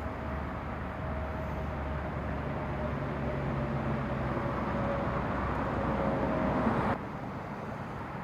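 A vehicle engine running steadily with a faint hum, slowly growing louder; about seven seconds in it drops off abruptly to a quieter steady rumble.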